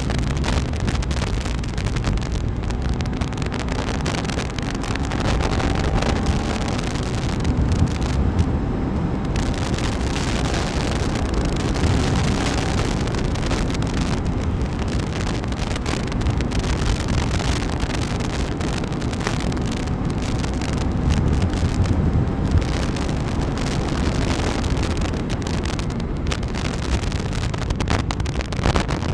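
Wind rushing over the microphone on a moving KTM 390 Enduro R, with the bike's single-cylinder engine running underneath at a steady cruising speed.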